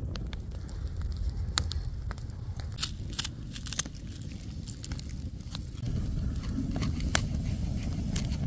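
Wood fire crackling, with irregular sharp snaps over a steady low rumble of wind on the microphone.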